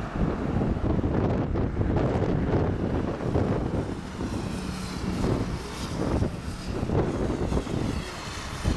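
Jet airliner engine noise, with a sweeping hiss in the upper range from about halfway through, over heavy wind buffeting the microphone in a strong crosswind.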